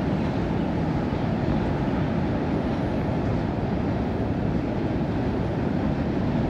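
Steady low rumble of a distant double-stack container freight train rolling across a tall steel trestle bridge.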